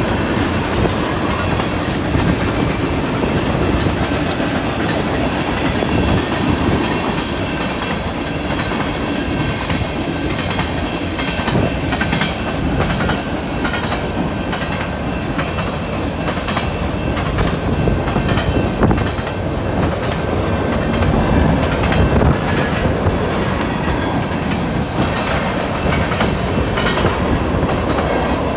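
Canadian National train rolling past with its steel wheels clattering steadily, many clicks over the rail joints.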